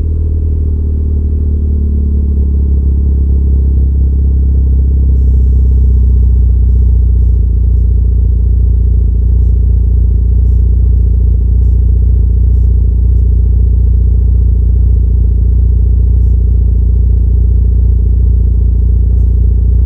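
Honda Civic Type R FK8's 2.0-litre turbocharged four-cylinder idling on a cold start through a Seeker S.E.S. TRIDENT aftermarket exhaust. The fast cold idle eases slightly lower a few seconds in, then runs steady.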